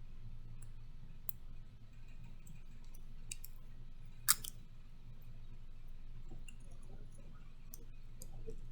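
Scattered light clicks and taps over a low steady hum, with one sharper, louder click about four seconds in.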